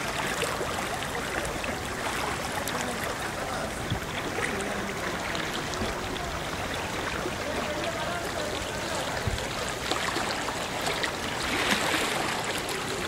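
Floodwater from heavy rain flowing steadily, a continuous rush of water.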